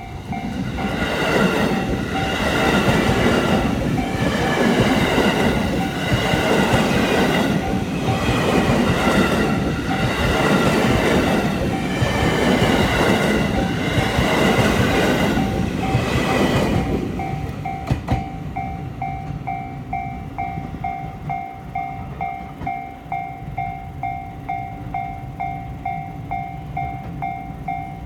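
Japanese level-crossing warning bell ringing in rapid, even dings while a train passes close by for about seventeen seconds, its wheels clacking over the rail joints. The train noise dies away, and the bell keeps ringing, a sign that the crossing stays closed.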